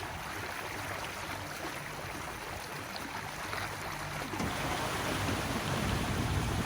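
Boat engine running, with water rushing past the hull; it grows louder about four seconds in.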